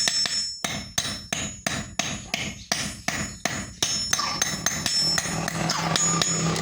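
Hammer blows forging steel on an anvil, about three sharp ringing strikes a second, the steel being a bearing ball drawn out into a mini axe. About four seconds in the hammering stops and a steady whirring noise with a low hum takes over.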